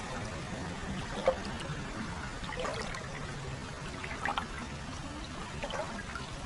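Hot-spring water flowing continuously into a footbath, trickling and pouring steadily. A few brief louder splashes stand out, the sharpest about a second in.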